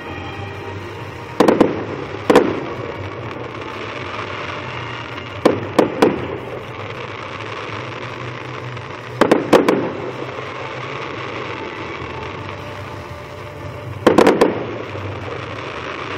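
Fireworks display: four clusters of two or three sharp bangs, roughly every four seconds, over a steady background noise.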